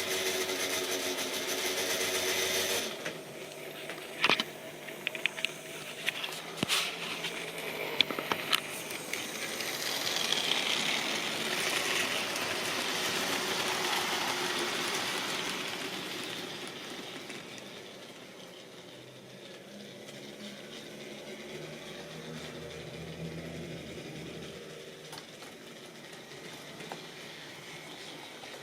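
Model railway train running on its track: a small electric motor hum and the wheels rattling and clicking over rail joints. There is a run of sharp clicks a few seconds in, the running noise is loudest about halfway through as the train passes close, and it then fades as the train moves away.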